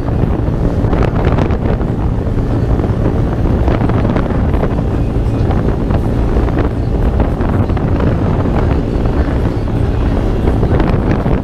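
Small minibike-class motorcycle engine running at a steady road speed, with heavy wind rushing over the microphone.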